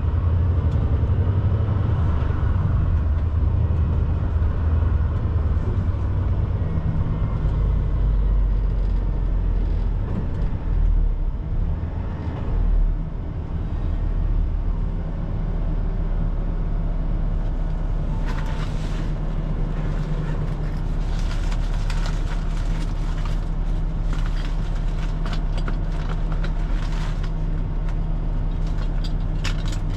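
Semi truck's diesel engine running steadily while driving, its low note dropping to a deeper pitch about a quarter of the way in. Short sharp clicks come and go through the second half.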